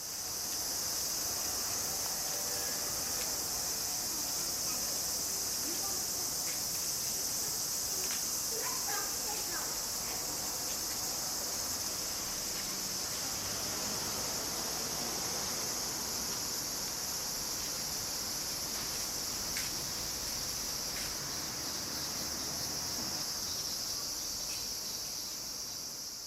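Cicadas singing in a dense, steady summer chorus, a continuous high-pitched shrill drone.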